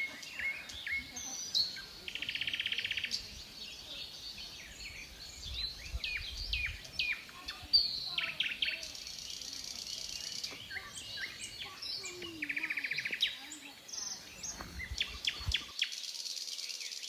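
Forest birdsong ambience: many birds chirping with quick falling calls, and a buzzy trill about two seconds in and again around twelve seconds.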